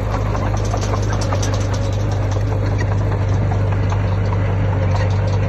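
Heavy earthmoving machine's diesel engine running steadily at an even pitch, with light scattered clanks and rattles over it.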